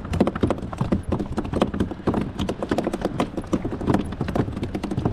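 A freshly caught fish flopping and thrashing in a kayak: a fast, irregular run of knocks and slaps against the boat.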